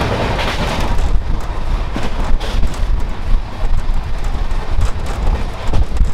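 Running noise inside a passenger train coach moving at about 75 km/h: a steady low rumble with wind buffeting the microphone, and irregular knocks and clatter from the wheels on the track.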